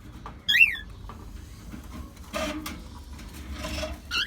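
Pet cockatiel calling: one loud, short, high call that falls in pitch about half a second in, and a second, shorter one near the end, with softer rustling between.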